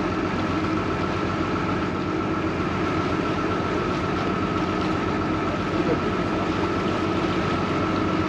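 Vaporetto water bus's engine running steadily, heard on board, with a constant low drone and a thin steady whine above it.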